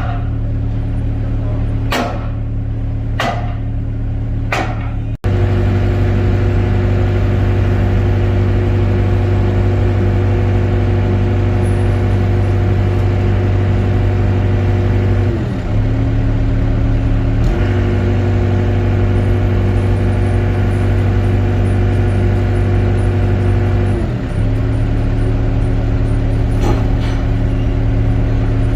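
Excavator's diesel engine running steadily. Three sharp knocks in the first few seconds and a brief cut-out about five seconds in; its pitch drops and comes back up twice.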